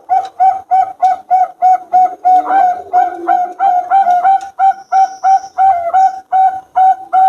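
Bangkok-strain zebra dove (perkutut) cooing: a fast, steady run of short, evenly spaced coos, about three a second.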